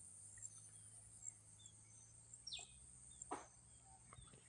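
Faint outdoor ambience: a steady high insect drone with an even, repeating chirp, and a bird giving one quick falling call about two and a half seconds in. A soft knock follows a little under a second later.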